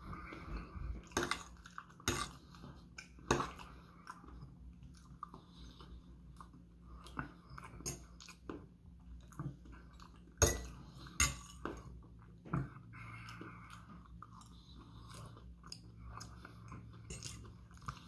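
Close-up chewing of a mouthful of food, with a metal fork clinking and scraping on a plate. Short, sharp clicks come at irregular moments, the loudest a little past halfway.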